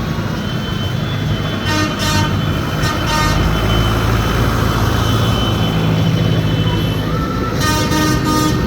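Tractor engines running with a steady drone, and a horn tooting briefly about two and three seconds in, then again in a longer blast near the end.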